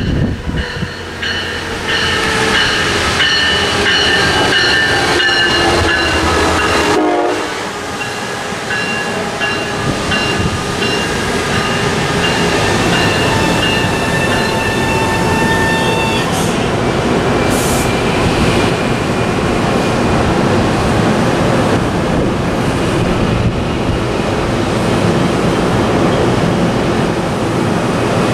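MARC commuter train approaching and passing through the station: its horn sounds with several steady tones over the first several seconds, the tones die away about halfway, and then the even rumble and rail noise of the bilevel coaches rolling past continues.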